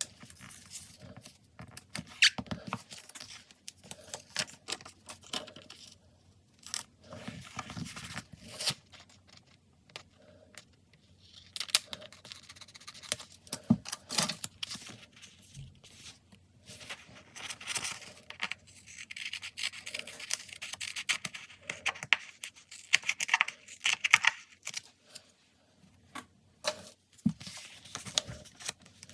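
Stickers and paper being peeled, torn and cut while decorating a diary page, in irregular bursts of rustling with small taps and scrapes, and a longer stretch of peeling or rubbing about two-thirds of the way in.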